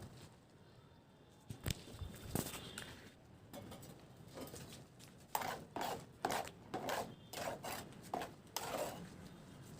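Hand tool working brick and mortar: two sharp taps, then a quick run of about eight short scraping strokes past the middle.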